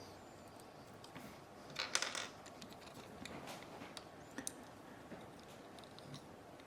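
Quiet handling of small tools and parts: a brief rustle about two seconds in, then scattered light clicks.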